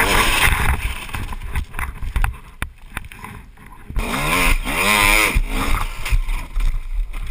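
Dirt bike engine revving in uneven bursts, with knocks and clatter in between. About four seconds in there is a louder rev whose pitch wavers up and down.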